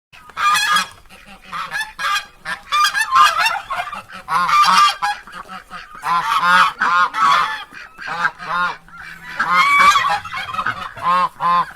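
Ducks quacking, many calls overlapping in quick runs with short breaks between them.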